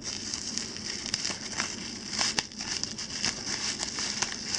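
Plastic packaging being unwrapped by hand, crinkling steadily with many small crackles. The packaging is bubble wrap and sticky tape.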